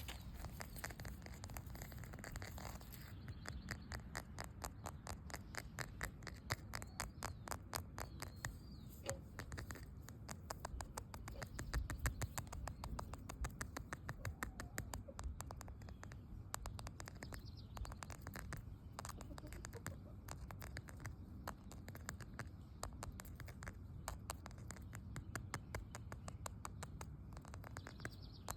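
Rapid, light tapping and scratching on an object, about ten quick strokes a second, kept up steadily with small swells in loudness.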